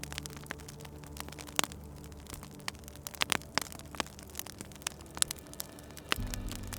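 Wood fire crackling, with irregular sharp pops and snaps, over a steady low hum that shifts and grows a little louder about six seconds in.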